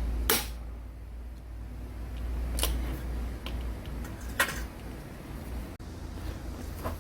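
Hammer striking a hand impact driver seated in a Phillips screw, to break loose the generator stator screws on a motorcycle engine: three sharp metallic blows about two seconds apart, with lighter knocks between them.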